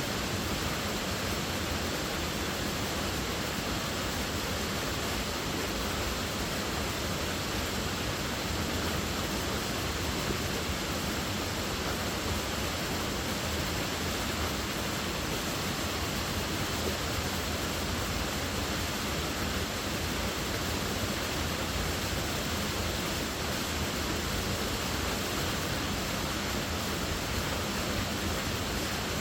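Waterfall: water falling and splashing in a steady, even rush with no let-up.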